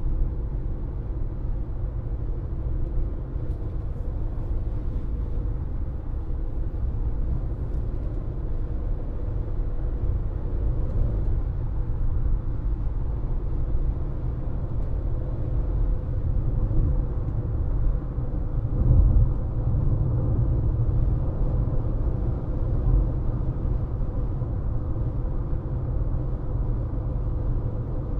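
A car driving along a road, heard from inside the cabin: a steady low rumble of tyres and engine with a faint steady hum. The rumble swells briefly about nineteen seconds in.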